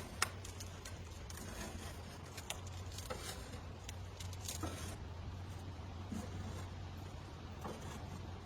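Scattered light clicks and scrapes of hand work on parts, with one sharp click about a quarter second in, over a steady low hum.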